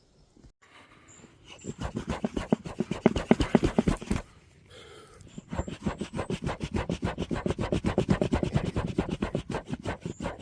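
Rapid, rhythmic rubbing or scraping strokes in two runs, with a short pause about four seconds in.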